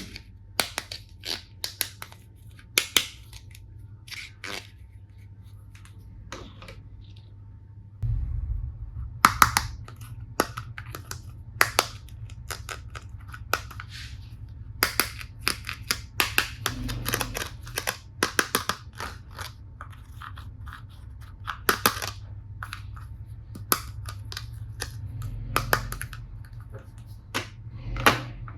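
Plastic toy tool pieces being handled: irregular sharp clicks and taps throughout, over a low hum that grows louder about eight seconds in.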